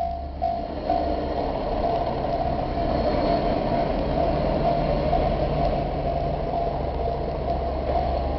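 A diesel train passing over a level crossing on the non-electrified line, its engine hum and running noise steady and loud from about a second in. The crossing's alarm keeps ringing its repeated bell-like strikes through it.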